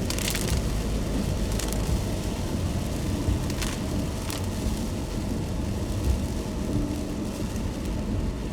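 Car driving in the rain, heard from the cabin: steady low road and tyre rumble under a hiss of rain, with a few short swishes.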